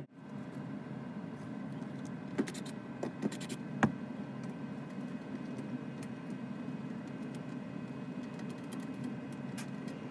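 Steady low mechanical hum of a running furnace blower, with a few light clicks and taps, the sharpest about four seconds in.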